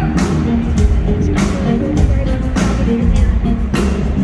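Live rock band playing, with a steady drum beat over heavy bass and guitar.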